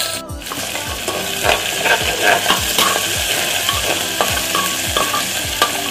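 Cumin seeds and chopped green chillies sizzling in hot oil in an aluminium pressure cooker, stirred with a slotted metal spatula that scrapes the pan in quick repeated strokes.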